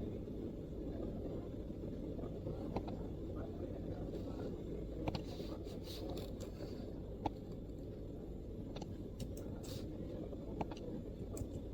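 Scattered MacBook keystrokes, a dozen or so irregular soft taps with pauses between them, over a steady low background rumble.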